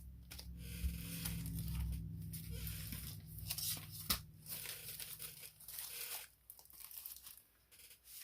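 Paper and plastic packaging being handled, crinkling and rustling with small clicks, over a low steady hum that stops about six seconds in.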